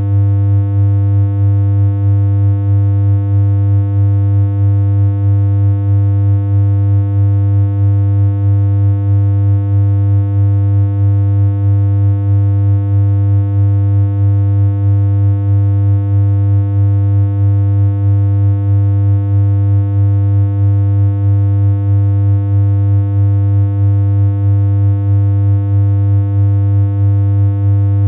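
Synthesized electronic hum: a single low note held without change, rich in overtones, with a faint regular pulse in loudness.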